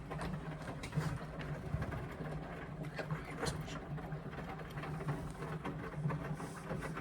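Indesit washing machine running a full load on an express wash: a steady motor hum under irregular knocks and sloshing from the turning drum.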